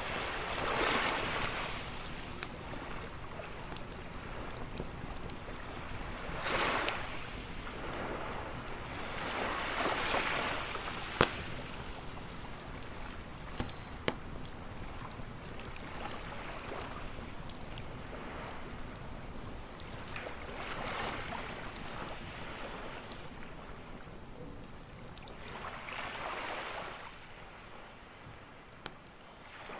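Campfire crackling with scattered sharp pops over waves washing onto a beach, each wave swelling and fading every few seconds.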